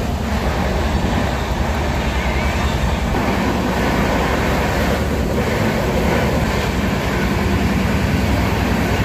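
Loud, steady running noise of a moving Indian Railways express passenger train, heard from inside a sleeper coach.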